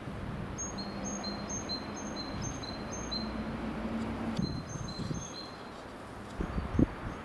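Great tit singing its two-note song, a high note and a lower note repeated in a quick run, then a shorter run after a brief pause. A steady low hum of background noise sits underneath, and a single thump comes near the end.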